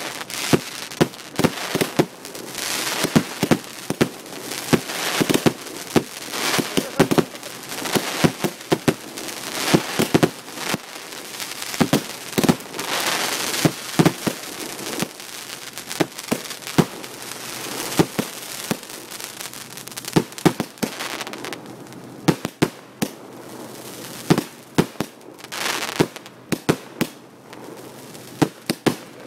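Fireworks display: a rapid, irregular series of loud bangs from bursting shells, with crackling between them.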